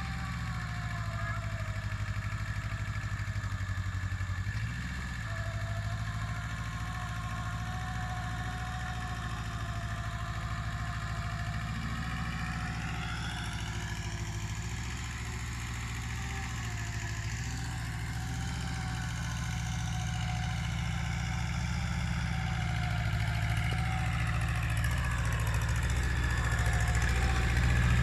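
Kubota mini tractor engine running steadily while working a rotary plough. A higher whine rises and falls in pitch twice, and the sound grows louder near the end.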